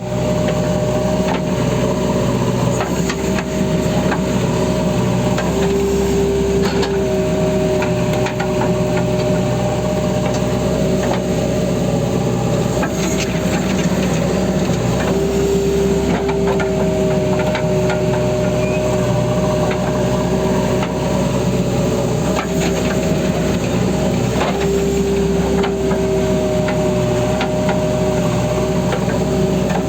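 JCB backhoe loader's diesel engine running under load, with a steady hydraulic-type whine that drops to a lower pitch for several seconds three times, and scattered clanks and knocks from the working bucket.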